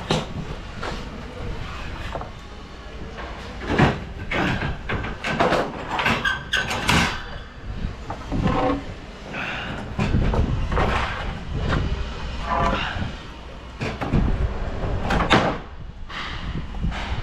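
Irregular knocks, clatters and sliding scrapes of a truck trailer being unloaded, with faint voices now and then.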